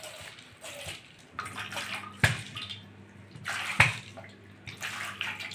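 Washing water pouring and splashing out through the punched holes of a plastic sprouting container holding green gram, in uneven gushes, with two sharp knocks about two and four seconds in.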